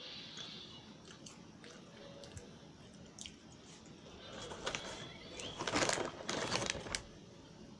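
A crisp round cracker being bitten and chewed close to the microphone: a few faint clicks, then a run of loud crunches from about four and a half to seven seconds in.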